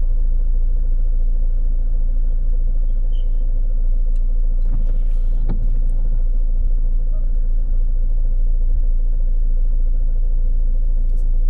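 Steady low rumble of a motor vehicle, with a brief louder whoosh and a sharp click about five seconds in.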